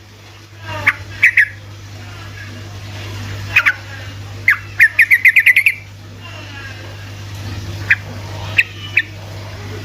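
Yellow-vented bulbul (trucukan) calling with sharp, loud notes: scattered single calls, then a rapid volley of about eight notes around the middle. A steady low hum runs underneath.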